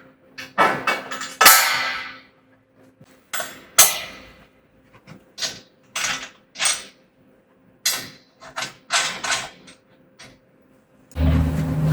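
Irregular metallic clanks, clicks and rattles from steel parts and hand tools being handled while bolting together a sawmill's steel bed. Near the end a louder steady low hum starts.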